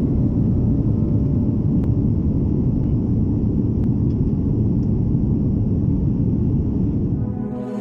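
Steady low rumble of a Philippine Airlines Airbus A330-300 airliner in motion, its engines and rushing air heard from on board; it eases slightly near the end.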